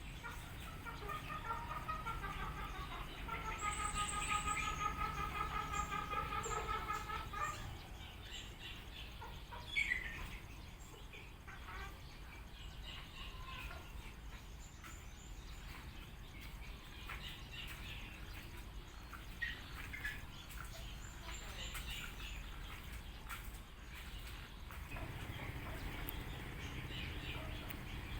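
Birds calling: a long run of rapid, pitched pulsed notes over the first seven seconds or so, then scattered short chirps.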